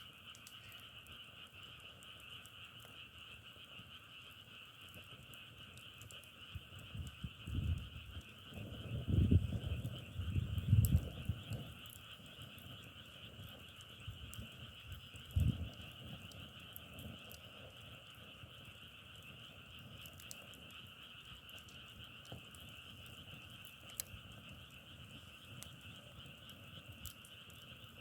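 Dense chorus of many frogs calling, a steady massed crackle like burning firewood with scattered sharp clicks. Several low thumps about 8 to 11 seconds in and one more near 15 seconds are the loudest sounds.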